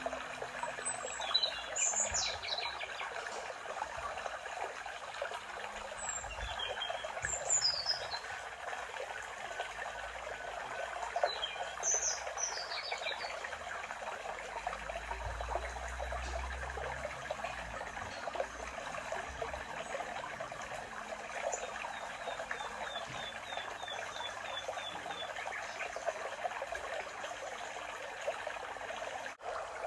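A small stream trickling steadily, with songbirds singing short phrases that slide downward in pitch three times in the first half, and a quick run of repeated high chirps later on.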